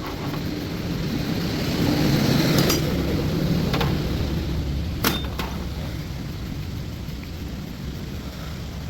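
A vehicle's running noise swells to a peak about two and a half seconds in and slowly fades, with a few sharp metallic clicks.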